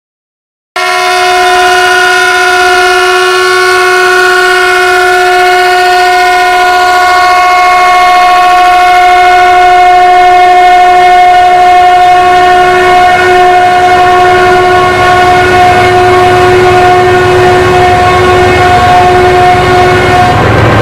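Locomotive horn sounding one long, steady, loud blast of nearly twenty seconds: the train's departure signal. It starts suddenly about a second in and cuts off just before the end, while a low rumble builds beneath it over the last few seconds.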